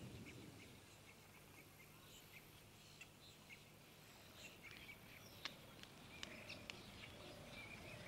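Near silence with faint, scattered bird chirps outdoors, more of them in the second half. In the first second the low rumble of a preceding gun or cannon blast dies away.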